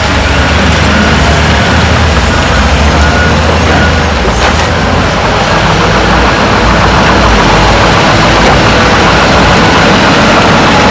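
Diesel engines of heavy earthmoving machinery, a bulldozer and dump trucks, running steadily under work.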